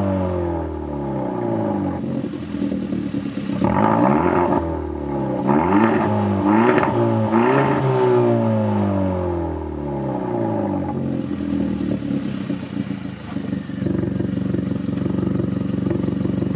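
Hyundai Elantra GT N Line's 1.6-litre turbo four-cylinder through a muffler-delete exhaust, revved in place: the revs fall away at the start, several quick throttle blips follow about four to eight seconds in, and then it settles to a steady idle. The exhaust is loud.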